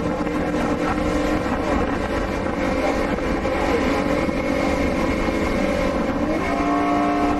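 Boat engine running steadily, its pitch stepping up a little about six seconds in as the revs rise.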